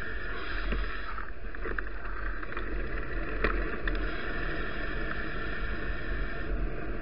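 Steady wind and ride rumble on a bicycle-mounted Kitvision HD5 action camera while cycling, with a few small knocks, one clearer about three and a half seconds in.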